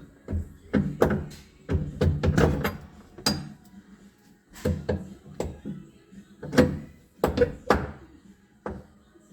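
Irregular metal knocks and clunks, about a dozen, as a wiper motor is pushed and wrestled into its mounting under a tractor cab.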